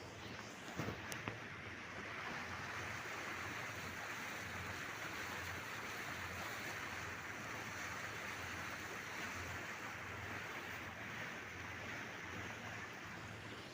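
Steady rush of Black Sea surf, with a few sharp clicks about a second in.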